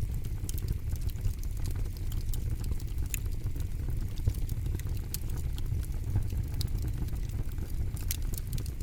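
Wood fire crackling: irregular sharp pops and snaps over a steady low rumble of burning, with louder pops about three seconds in and near the end.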